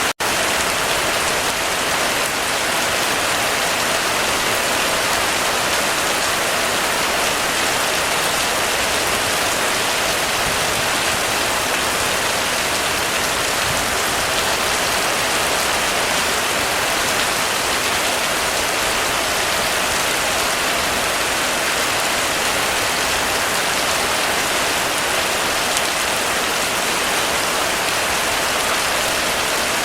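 Heavy rain falling steadily on a roof, a dense, even hiss of drops. There is a split-second break just after the start.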